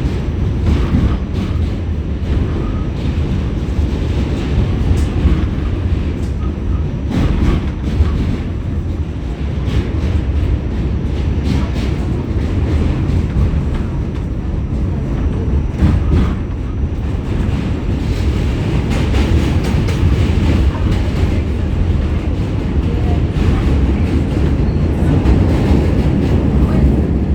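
New York City subway train running across the Manhattan Bridge: a loud, steady rumble of wheels on the rails, broken by irregular clacks over rail joints.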